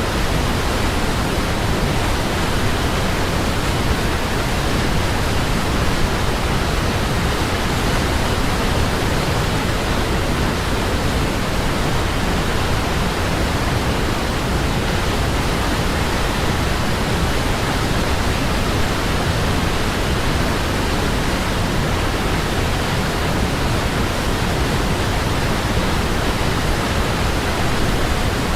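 Waterfall: a steady, even rush of falling water with no pauses or separate splashes.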